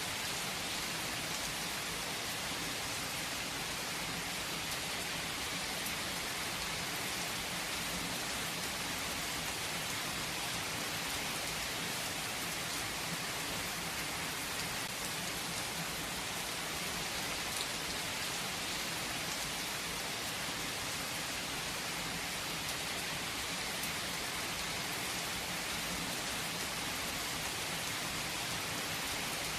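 Steady rain falling, an even hiss of drops on surfaces with no let-up and no thunder.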